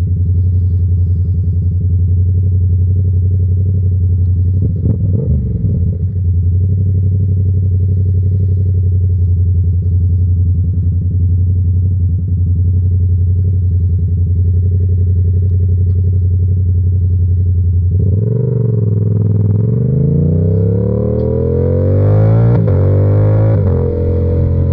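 Yamaha R7's 689 cc parallel-twin engine, fitted with an SC-Project exhaust, running at a steady cruising speed, with a brief change in note about five seconds in. In the last few seconds the revs climb and drop in several rising sweeps, then settle back to a steady note.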